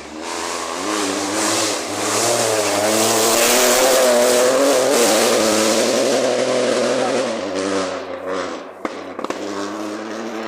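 Rally car passing at speed on a gravel forest stage: the engine's revs rise and fall through gear changes, loudest a few seconds in with a hiss of tyres on gravel, then fading away.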